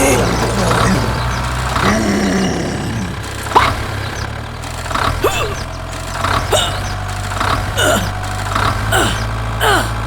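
A small engine idling steadily with a low drone, like a mini tractor or excavator. From about a third of the way in, short, sharp falling chirps sound over it every half second or so.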